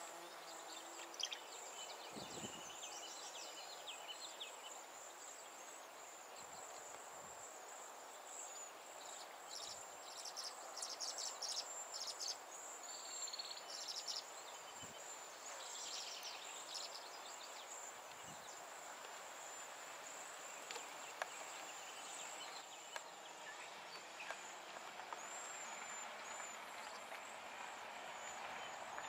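Small songbirds calling in clusters of short high chirps, busiest about ten to seventeen seconds in. Under them runs a steady, high, thin insect-like buzz.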